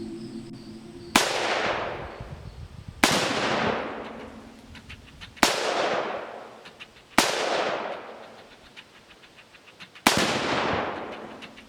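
Five shots from a Ruger 5.56 rifle, irregularly spaced about two to three seconds apart, each followed by a long rolling echo.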